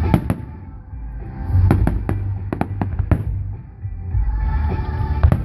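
Fireworks bursting: sharp bangs and crackles, two at the start, a quick cluster in the middle and one more near the end, with music playing underneath.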